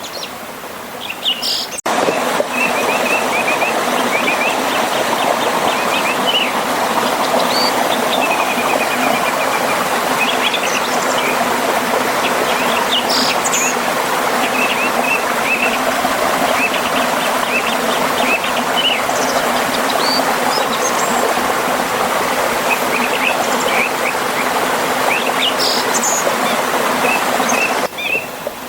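Steady rush of a river and small waterfall with many songbirds chirping over it. The water noise jumps up suddenly about two seconds in and drops back just before the end.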